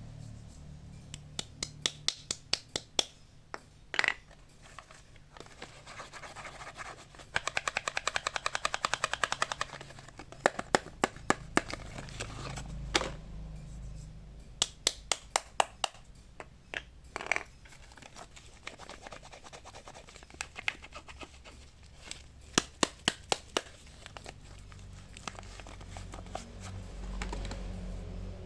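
Bars of soap being opened by hand: packaging scratched, torn and crinkled, with many sharp clicks and taps, including a fast run of clicks lasting about two seconds, a quarter of the way in.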